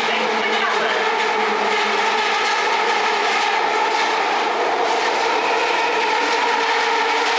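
Electric rapid-transit train running, a steady hum with several held tones over a hiss.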